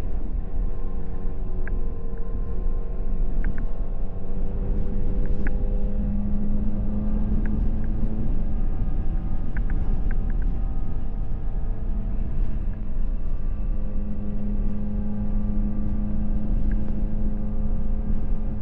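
Motorcycle engine running at a steady cruise, its pitch drifting gently up and down, over a heavy low rumble of wind and road noise.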